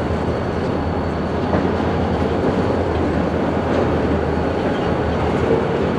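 Freight train moving through a rail yard during switching: a steady, unbroken running noise of locomotive and rolling cars.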